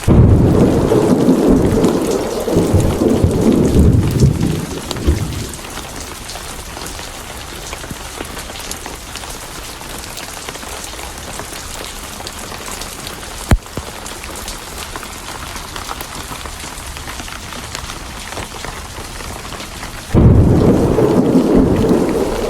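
Steady rain with thunder: a loud low rumble sets in suddenly at the start and rolls for about five seconds, then another breaks in suddenly about 20 seconds in. One sharp click about halfway through.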